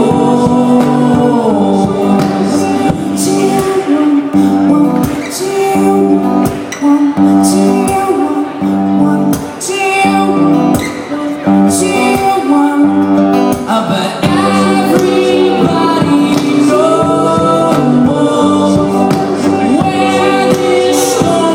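A band playing a song live, with sung vocals over the instruments. The music runs steady and loud throughout.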